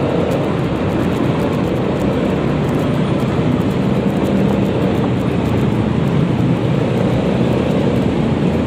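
Steady riding noise from a Yamaha XMAX 300 scooter at a constant pace: a low engine drone under a rush of road and wind noise, with no change in speed.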